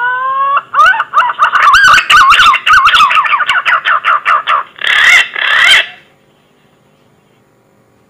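Punai (green pigeon) call from a hunting lure recording. It opens with a rising whistled note, then a fast run of wavering, gliding whistles with clicks, and ends in two harsher notes about five seconds in.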